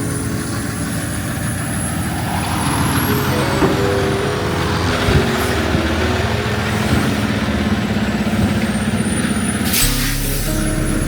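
Semi-truck engine running steadily, with a thin high whine slowly rising in pitch. A short hiss of air about ten seconds in, like an air brake.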